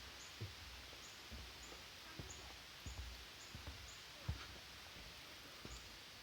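Footsteps of someone walking, low dull thuds about once a second, over a steady faint hiss. Faint short high chirps repeat in the background.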